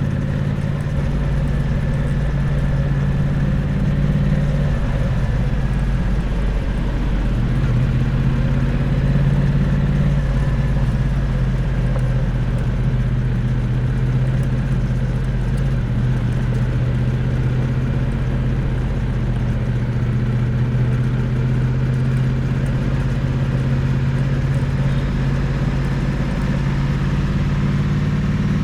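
Triumph Bonneville T100's parallel-twin engine running at a steady engine speed, heard close to the exhaust, its pitch shifting slightly a few times.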